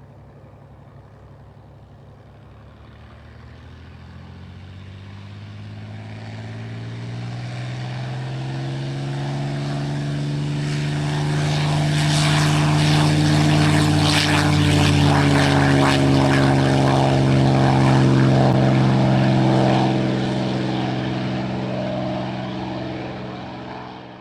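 Propeller airplane engine passing by: it grows steadily louder, is loudest through the middle of the stretch, then fades away, its pitch shifting slightly as it goes past.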